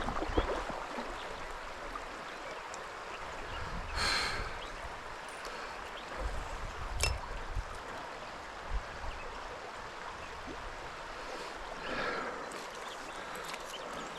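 Stream water running steadily. Two brief louder swishes come about four and twelve seconds in, and a sharp click near seven seconds.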